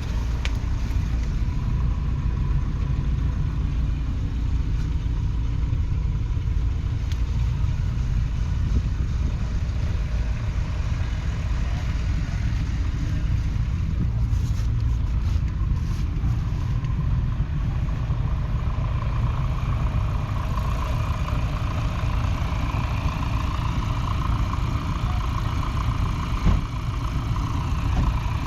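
1977 Massey Ferguson 590's four-cylinder 4.1-litre Perkins diesel engine running steadily. About two-thirds of the way through, the note grows brighter. There is a single short knock near the end.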